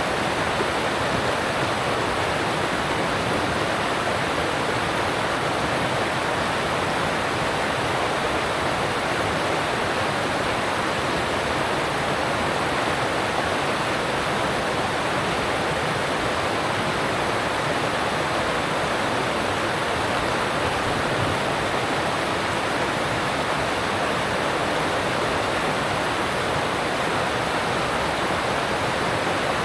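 Alpine mountain stream rushing over rocks, a steady, even rush of water with no change in level.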